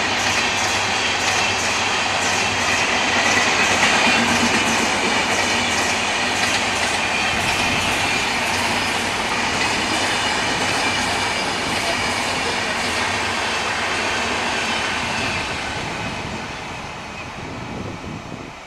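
Train running past on the track: a steady rumble with the rhythmic clickety-clack of wheels over rail joints, fading away over the last few seconds as the train moves off.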